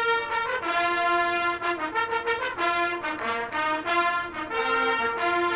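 Marching band brass section playing sustained chords, moving from note to note every half second or so.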